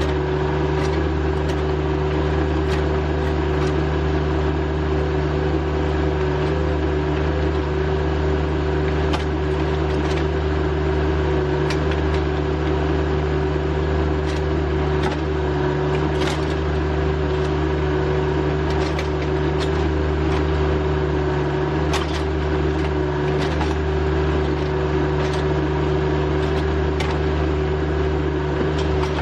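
Rural King RK25 subcompact tractor's engine running steadily at constant throttle, a level hum that does not rise or fall, with faint scattered clicks over it.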